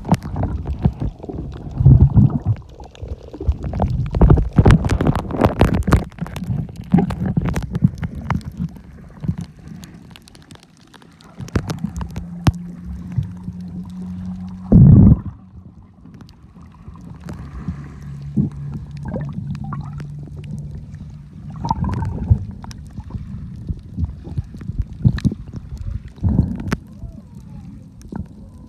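Water gurgling and sloshing around a camera while snorkeling, with many sharp clicks and a loud burst about fifteen seconds in. A low steady hum comes and goes in the middle.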